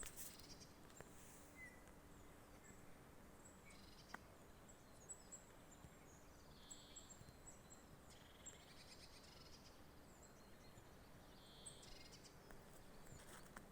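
Near silence in a forest, with faint, high bird chirps scattered throughout and a few brief chirping phrases about halfway through and near the end.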